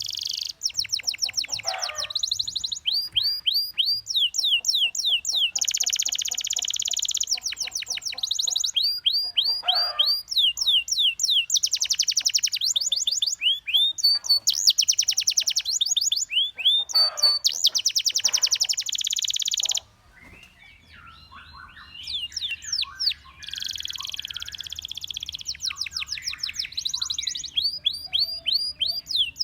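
Domestic canary singing: long trills of fast repeated notes, rolls and quick sweeping whistles. About two-thirds of the way through, the song breaks off suddenly, then starts up again softer and builds back within a few seconds.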